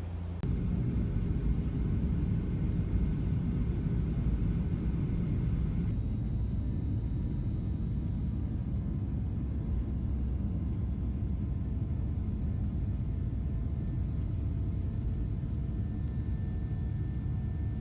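Passenger airliner engines heard from inside the cabin, a steady low noise; it changes character about six seconds in, as the plane reaches its takeoff.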